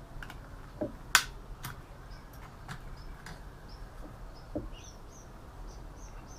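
A few scattered sharp clicks and knocks of computer parts and tools being handled while a PC is dismantled, the loudest about a second in. Faint short high chirps repeat in the background through the second half.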